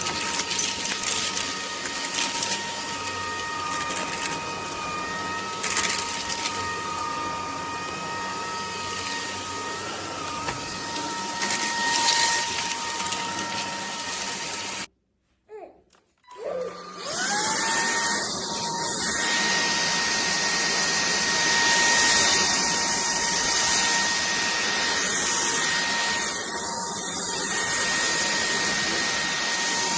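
JELLYPIG cordless stick vacuum running with a steady high-pitched motor whine over suction noise. About fifteen seconds in it cuts out for a second or so, then starts again, the whine rising quickly back to speed.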